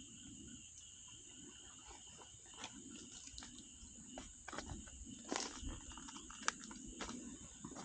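Wood campfire crackling in scattered sharp pops that grow more frequent a few seconds in, the loudest about six and a half seconds in, over a steady high chirring of crickets.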